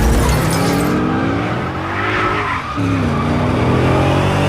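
Car engine accelerating hard, its pitch climbing, falling back at a gear change about halfway, then climbing again. A burst of tyre skid hiss comes at the start.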